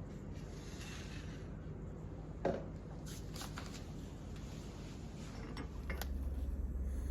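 Food-preparation handling sounds: one sharp knock, then a handful of lighter clicks and taps, over a steady low background hum that swells into a low rumble near the end.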